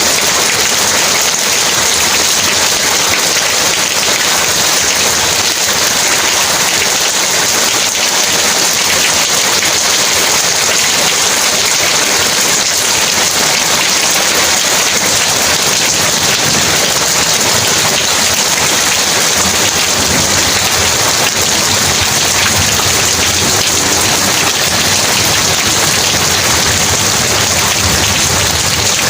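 Heavy rain falling steadily, a dense even hiss of drops. A low rumble of distant thunder comes up in the second half.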